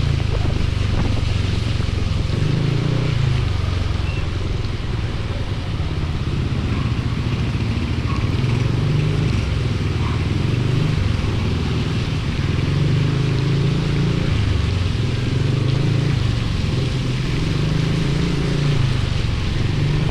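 Motorcycle engine running under way, its pitch rising and falling every few seconds with the throttle, over a steady rush of wind and rain noise.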